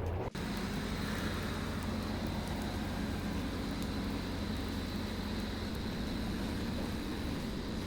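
An engine running steadily, a low, even hum with a faint high whine above it. Just after the start the sound drops out for an instant and then comes back as this steady hum.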